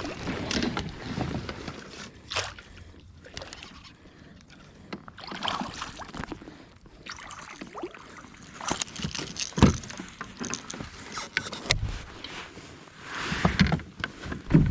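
Water splashing and sloshing around a kayak, with irregular knocks and clicks scattered through it.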